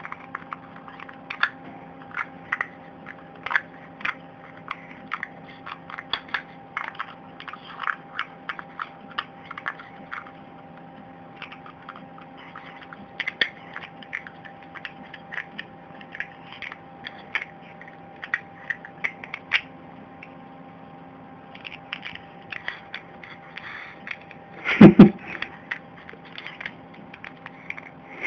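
A small pet crunching and chewing food in quick, irregular bites over a steady background hum, with a louder knock twice near the end.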